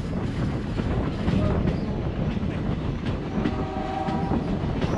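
Passenger train running, heard at an open coach doorway: a steady rumble of wheels on the rails with a clatter of rail joints. A faint held tone sounds for about a second past the middle.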